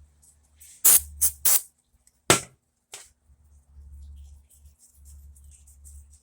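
Four short, sharp brushing strokes of a soft brush scrubbing a circuit board, three in quick succession about a second in and one more about a second later, followed by faint light scratching.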